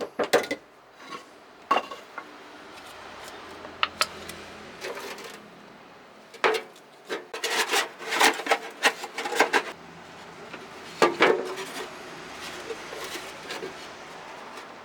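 Irregular knocks, clinks and scraping from hand work on thin sheet-metal cans, with a close cluster of sharp knocks past the middle.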